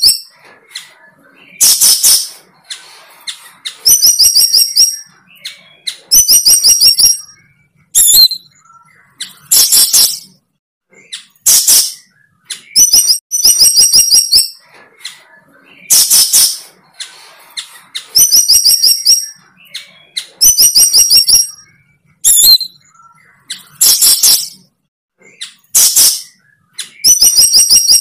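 A bird calling loudly in short phrases that repeat about every two seconds. Each phrase is a quick run of high chirps followed by a harsh, buzzy note.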